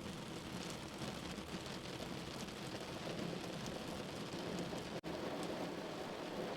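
Steady rain falling, an even dense patter, with a momentary break in the sound about five seconds in.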